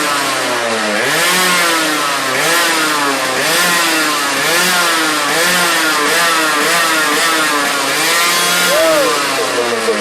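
Yamaha RX 115's two-stroke single-cylinder engine revved through its exhaust in repeated throttle blips, about one a second, the pitch rising and falling with each.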